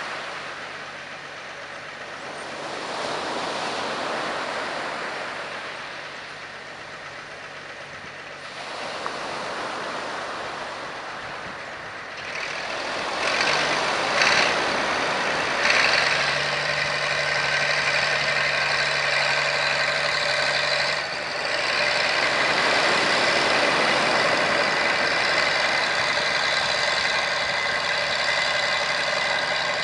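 Heavy construction machinery working: diesel engine noise that swells and eases, then a steadier run with a high whine in the second half, with a couple of short clanks.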